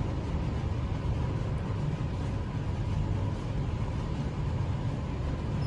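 Otis lift car travelling upward between floors: a steady low rumble of the moving car with air noise and a faint steady whine.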